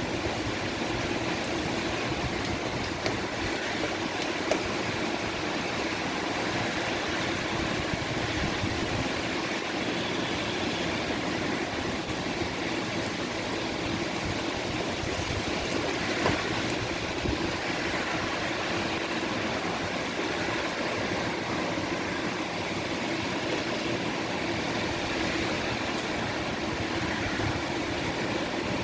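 Heavy rain falling steadily, an even hiss with a few sharper taps standing out.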